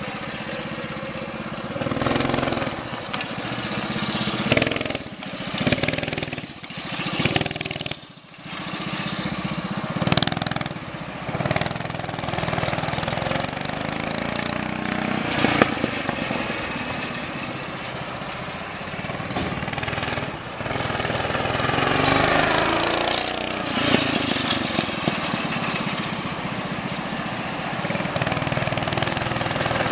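Baja Doodle Bug mini bike's stock Harbor Freight Predator 212 cc single-cylinder four-stroke engine, fitted with a Brute muffler, running under riding load. It revs up and eases off again and again as the bike accelerates and slows, the pitch rising and falling, with short throttle-offs early on and a long climb and fall near the middle.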